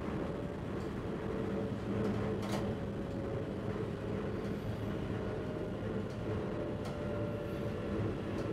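Passenger train running along the line, heard from the driver's cab: a steady rumble with a low hum. There are a few short clicks, about two and a half and seven seconds in.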